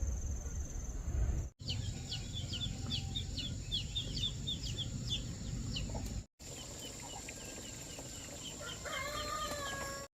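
Chickens calling: rapid runs of short, high chirps, then near the end a longer, wavering call, over a steady low background noise.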